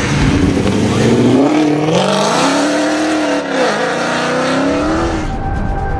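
Mercedes C63 AMG Black Series' 6.2-litre V8 through a decatted iPE exhaust, accelerating hard as the car pulls away. The engine note is low at first, climbs in pitch from about a second and a half in, dips briefly and climbs again, then gives way to music near the end.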